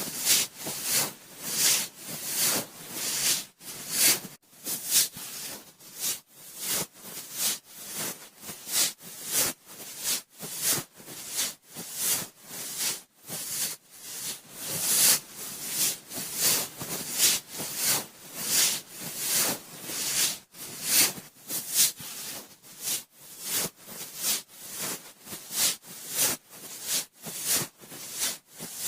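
Cotton swab rubbing and swirling inside the ear of a binaural microphone, a close, scratchy hiss in repeated strokes of about two a second.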